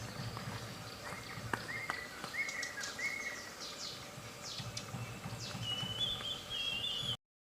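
Wild birds calling over steady outdoor background noise: a series of short whistled notes, quick high chirps, then a higher warbling call near the end. The sound cuts off abruptly just before the end.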